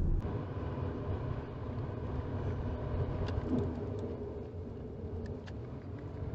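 Steady road and engine rumble inside a moving 2018 Toyota RAV4, picked up by the dashcam's microphone, with a few faint ticks.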